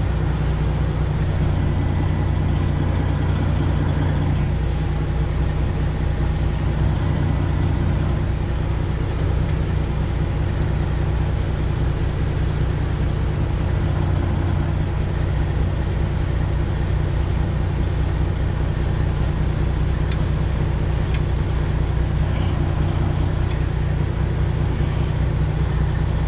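Detroit Diesel 12.7-litre engine of a Freightliner Classic XL semi truck running at low, steady revs, heard from inside the cab during slow backing manoeuvres.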